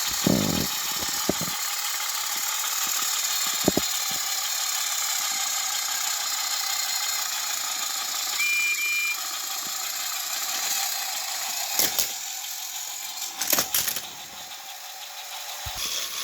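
Small electric motors of battery-powered Thomas & Friends toy engines whirring steadily, with several sharp clicks and knocks.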